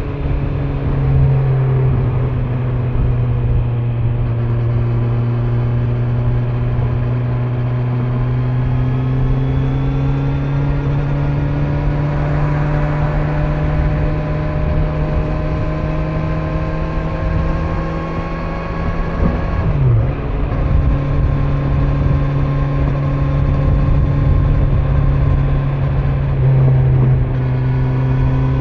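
Kawasaki Z900's inline-four engine running under way on its stock exhaust, its pitch climbing slowly as the bike gathers speed, with brief changes in pitch near the start, about two-thirds through and near the end as gears change. Wind and road noise run underneath.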